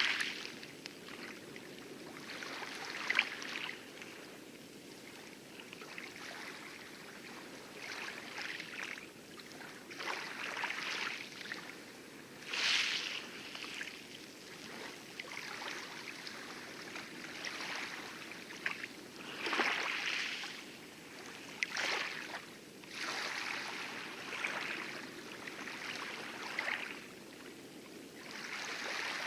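Light waves lapping and splashing on coral at the lagoon edge of an atoll, in irregular splashes a second or several apart, over a steady low rush of distant heavy surf on the outer reef.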